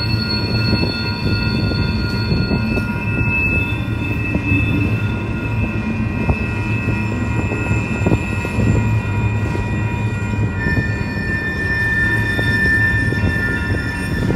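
Freight train cars rolling past with a steady low rumble on the rails and sustained high-pitched wheel squeal; the squeal tones shift about two and a half seconds in, and a new lower squeal starts about ten seconds in.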